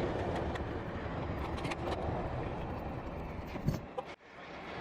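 A motor vehicle running, a steady low rumble with a hiss of road and engine noise, with a few faint clicks. The sound briefly drops away about four seconds in.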